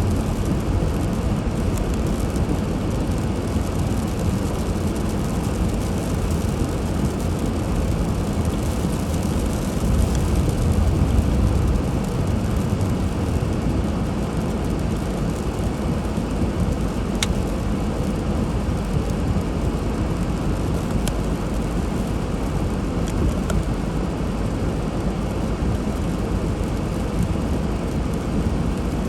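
Steady low rumble and hiss of a car driving on a snowy road, swelling a little about ten seconds in, with a couple of brief clicks later on.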